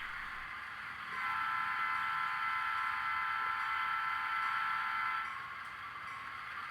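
HO-scale model locomotive sounding a steady multi-tone horn chord for about four seconds, starting about a second in and cutting off sharply, over a faint hiss from the running train.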